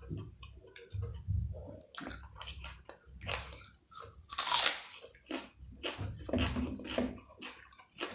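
A person chewing food: irregular wet smacking and crunching mouth sounds, with a louder wet smack about halfway through.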